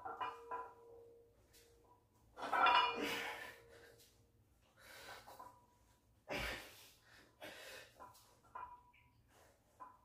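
A man's forceful, strained breaths and exhales during a heavy barbell bench press set. They come in separate bursts a second or two apart, the loudest about two and a half seconds in.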